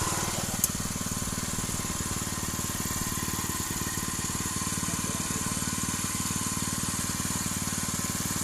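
Small petrol engine of a rice reaper running steadily, with an even fast pulse. One sharp click shortly after the start.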